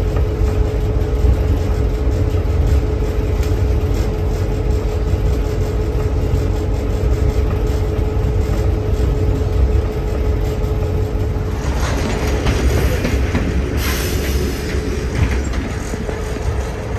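Train rolling along the rails, heard from on board: a steady low rumble with a steady hum and faint clicks of the wheels. About twelve seconds in, the hum drops out and a higher hissing noise from the wheels on the rail comes in, strongest around fourteen seconds in.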